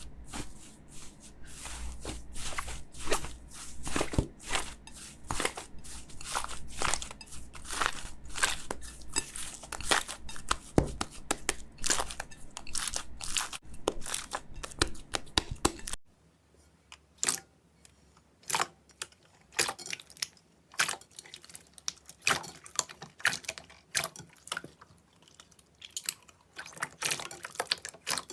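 Crunchy slime being squeezed and pressed close to the microphone, crackling and popping in quick, dense runs. About sixteen seconds in it cuts to another clip with sparser, quieter pops.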